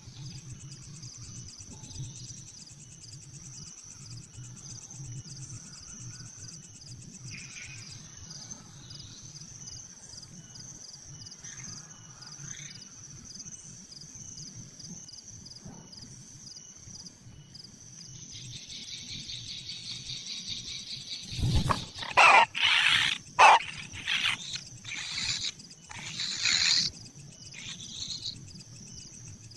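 Insects trill steadily in a high pulsing chorus. Past the halfway point a raspy buzzing starts, then breaks into a run of loud harsh rasping calls lasting several seconds, in keeping with kingfisher chicks begging at the nest.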